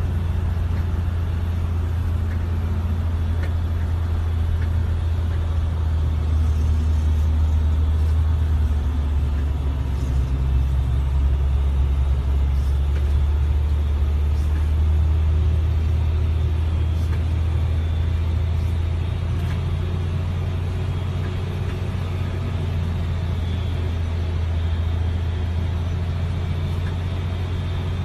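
Steady low engine rumble with a faint, constant high-pitched whine above it, from the ground machinery and aircraft during an Airbus A380 pushback.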